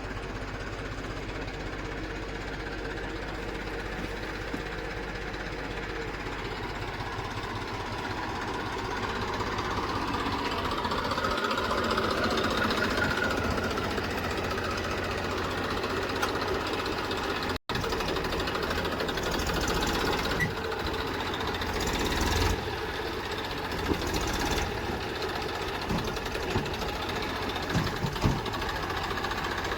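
Heavy diesel machinery engine running, its pitch and level rising from about a third of the way in. After a momentary break just past the middle, it keeps running under scattered clunks and knocks.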